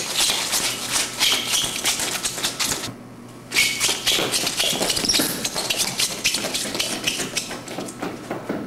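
Rapid, dense clicking that stops for about half a second about three seconds in, then goes on.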